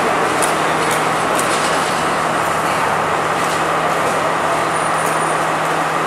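Class S13 diesel multiple unit running through the station at speed: a loud, steady rumble with a steady low hum.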